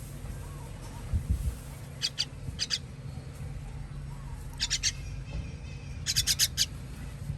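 Baby bird giving short, high-pitched begging chirps in quick runs of two to six, the typical calls of a nestling being fed. A low bump about a second in.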